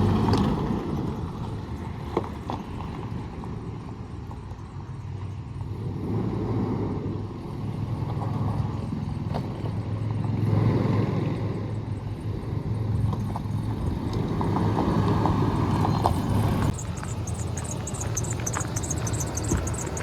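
2004 Chevrolet Colorado pickup's engine running with a steady low hum, swelling and easing a few times.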